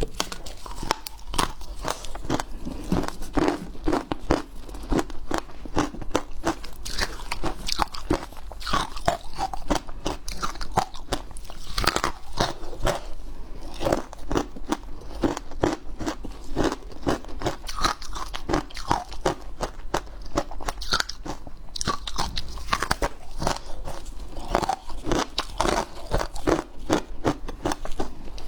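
Hard ice being bitten and chewed close to the microphone: a continuous run of irregular crunching and cracking bites. A low steady hum lies underneath.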